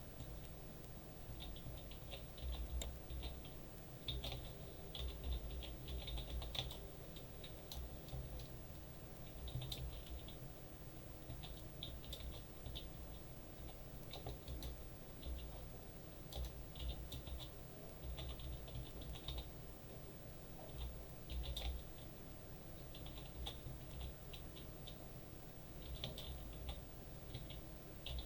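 Irregular bursts of rapid tapping and knocking carried through the ceiling from the flat above, each burst a quick run of sharp clicks over dull low thuds.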